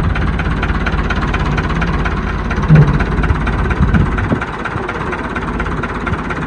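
Old tractor engine idling with a steady, even beat; it gets a little quieter about two-thirds of the way through.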